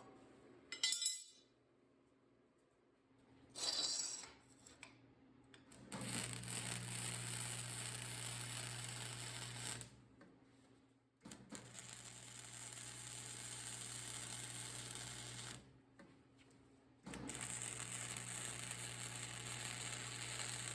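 Welder laying three steady beads of about four seconds each, a continuous hiss over a low hum, with short pauses between them. Two brief metal clinks come before the first bead.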